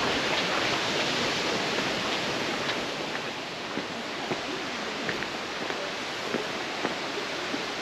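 Steady rush of Peavine Falls, a waterfall, with scattered light footsteps on the rocky trail in the second half.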